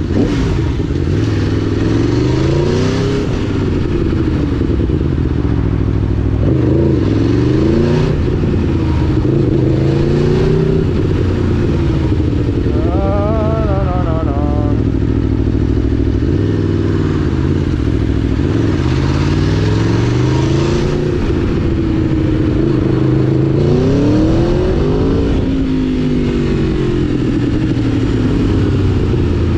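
Aprilia Tuono V4 1000's V4 engine heard from the rider's seat, its pitch climbing and falling again and again as the rider opens and closes the throttle through traffic. About halfway through, a brief warbling tone sounds above it.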